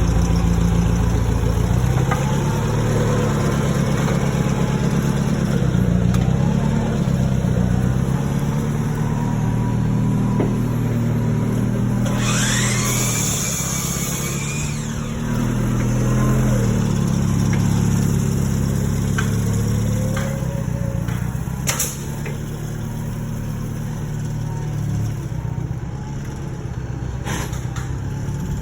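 A large engine running, its speed rising and falling. About twelve seconds in there is a loud hiss lasting a couple of seconds with a rising whine in it, and there are a few sharp knocks later on.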